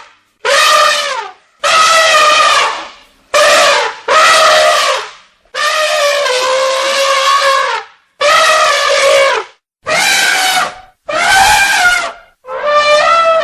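Elephant trumpeting: a series of about nine loud, brassy calls, each a second or so long with a bending pitch, separated by short pauses.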